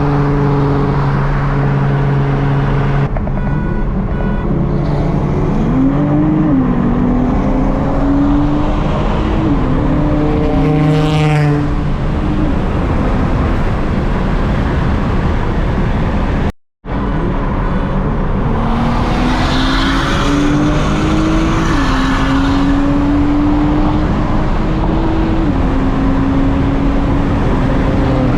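Car engine accelerating hard through the gears. The pitch climbs and drops back at each upshift, in two runs separated by a short break about two-thirds of the way in.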